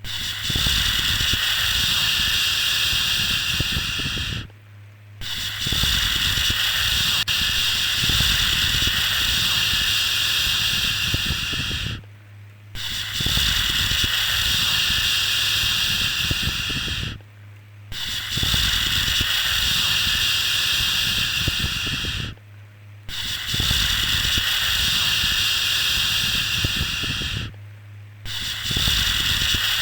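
A baby-soothing 'shhh' shushing sound, a steady hiss repeated in long strokes of about five seconds each, with a short pause of under a second between strokes, five pauses in all.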